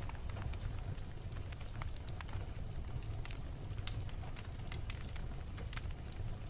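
Wood fire crackling in a fireplace: scattered sharp pops and snaps from the burning logs over a steady low rumble of the flames.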